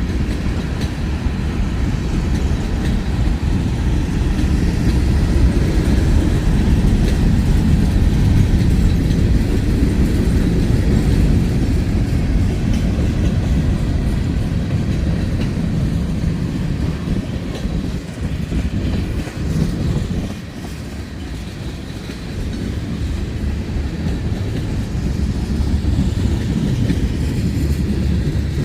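Freight train cars rolling past close by, a steady low rumble of steel wheels on the rails that dips briefly about two-thirds of the way through.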